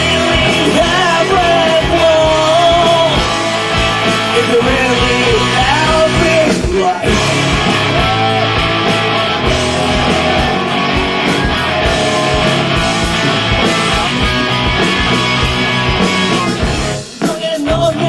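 Live rock band playing an instrumental passage with guitars, bass and drums, a lead melody bending in pitch over it. The band drops out briefly near the end, then comes back in.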